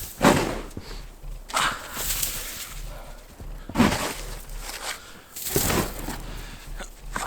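Snow shovel digging into deep, packed snow, with four separate scraping, crunching strokes a second and a half to two seconds apart.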